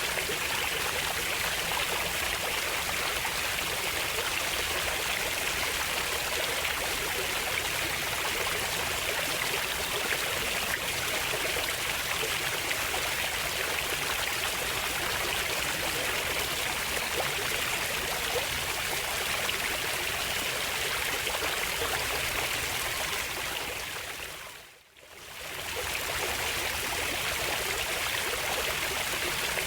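A stream of running water, a steady even rush. About 25 seconds in it fades away almost to silence for a moment and then fades back in, like an edit or loop point in the recording.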